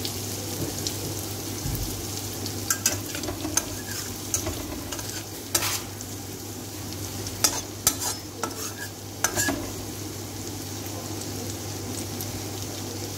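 Chopped ginger, garlic and ajwain (carom seeds) sizzling in hot oil in a steel kadhai while a steel spatula stirs and scrapes, with sharp clinks of the spatula on the pan. The clinks come thickest through the middle and stop for the last few seconds, leaving only the steady frying sizzle.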